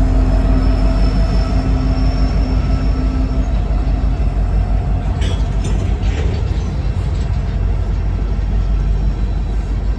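A BNSF diesel locomotive passing close by with a deep, steady engine drone and a faint high whine, giving way a few seconds in to coal hopper cars rumbling along the rails. A few sharp wheel clicks over the track come about halfway through.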